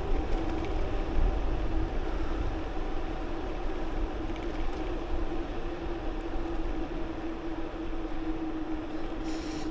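Wind rumbling on the microphone and the rolling noise of a bicycle ridden on a paved road, with a steady hum throughout.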